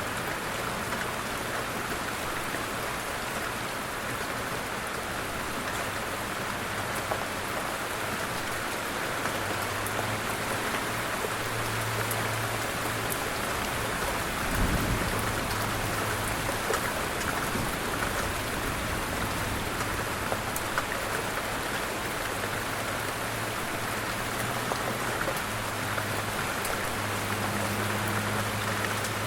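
Steady light rain falling, a fine patter of drops, with a single low thump about halfway through.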